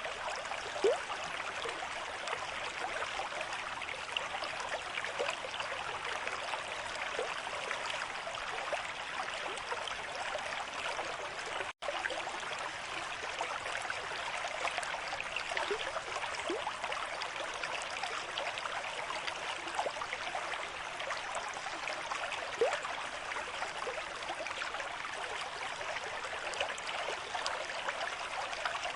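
River stream at moderate flow: water running steadily. The sound cuts out for an instant a little before halfway through.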